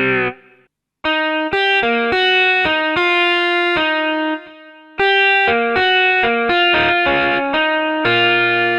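Casio keyboard with AiX sound source playing a guitar tone. A quick phrase of single notes starts about a second in, then a short break, then another phrase and a held chord near the end.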